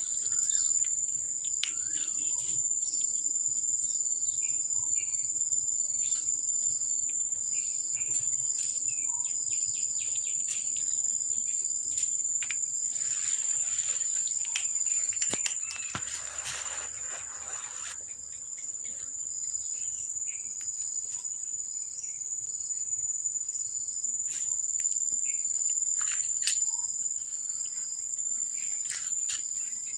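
Insects calling in a steady, unbroken high-pitched drone, with short chirps scattered through it.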